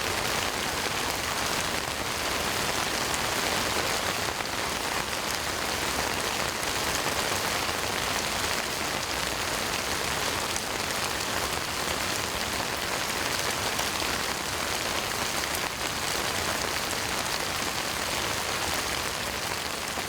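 Heavy rain pouring down steadily, a dense even hiss of downpour on surfaces.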